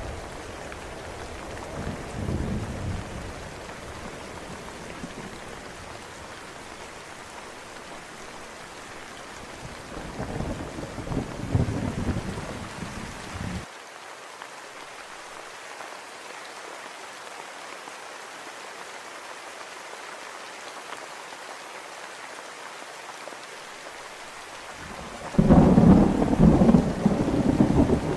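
Steady rain with rolls of thunder: a low rumble a couple of seconds in, a longer one around the middle that cuts off abruptly, and a much louder clap that starts suddenly near the end.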